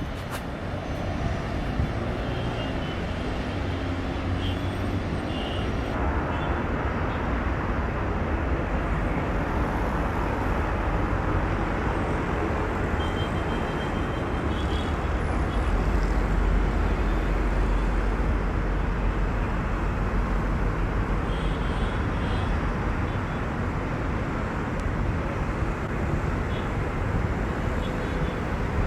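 Steady engine rumble with a hiss over it, swelling a little in the low end about halfway through.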